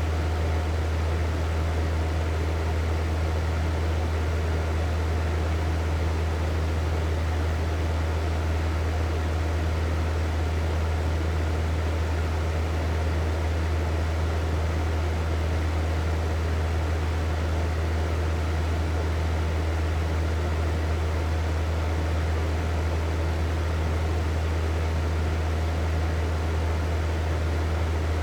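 Hair dryer running continuously: a steady motor hum under an even rush of blown air, with no change in speed.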